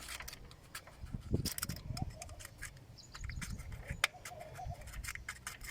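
A metal tool scraping and clicking against a car battery's terminal clamp in short irregular strokes, scratching off white corrosion. A bird calls faintly in the background about three times.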